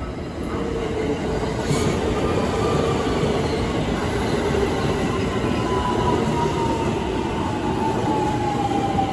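Electric commuter train pulling into the platform and slowing: a steady rumble of wheels and running gear. From about halfway a thin whine falls slowly in pitch as it slows.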